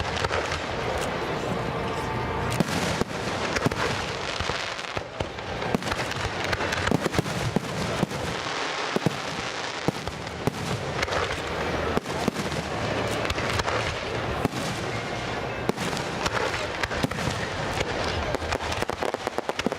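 Fireworks display: many sharp bangs and crackles in quick succession, over a steady wash of noise.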